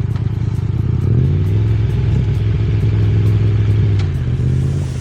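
Motorcycle engine running under way, rising in pitch about a second in as it speeds up, holding steady, then dropping back just before the end.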